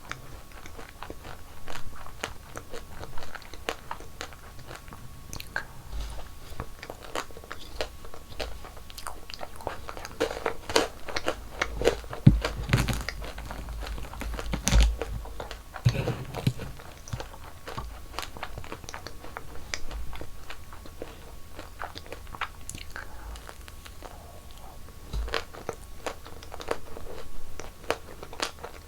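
Close-miked eating of sweets: crunchy bites and chewing, a dense run of crisp crackles and mouth clicks, busiest and loudest around the middle.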